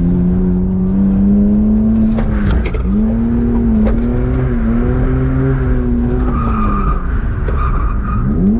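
BMW E46 drift car's engine held high in the revs, its pitch dropping and climbing back several times as the throttle is lifted and reapplied through a drift. Tyres squeal from about six seconds in until nearly the end.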